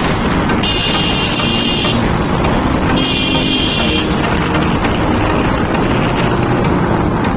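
Apache RTR 160 motorcycle riding at speed: steady single-cylinder engine and wind noise. A horn beeps twice, about a second each, near the start and around three seconds in.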